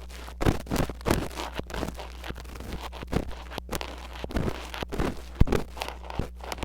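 Metal ear pick scratching and scraping on a mini microphone in irregular short strokes, a few a second. A steady low electrical hum lies underneath.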